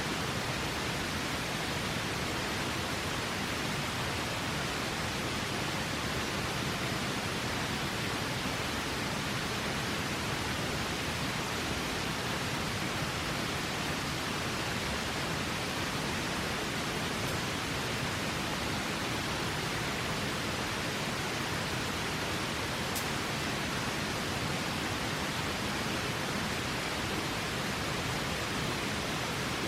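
River water rushing steadily, an even hiss-like roar with no rhythm. One faint sharp tick sounds past the middle.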